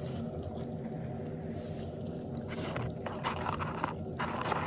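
Close-up eating noises, several short bursts in the second half, over a steady low hum.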